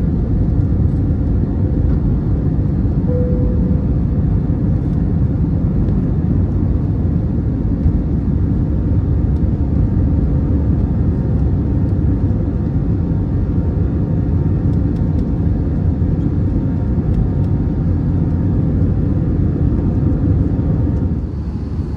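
Airbus A320 cabin noise: a steady, loud low rumble of the engines and airflow heard from inside the passenger cabin, easing slightly near the end.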